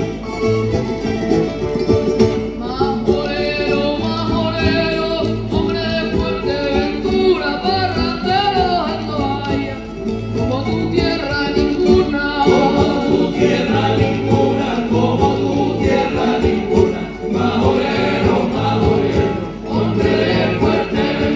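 Live folk music: guitars and other plucked strings strummed under voices singing together, with a steady repeating bass line.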